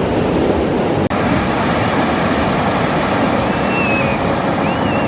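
Ocean surf washing on the beach, a steady loud rush, with wind buffeting the microphone. The sound drops out for an instant about a second in.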